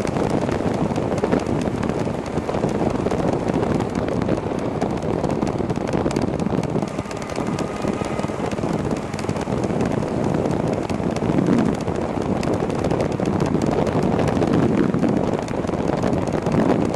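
Steady wind noise buffeting the microphone of a moving electric bicycle, with road noise underneath.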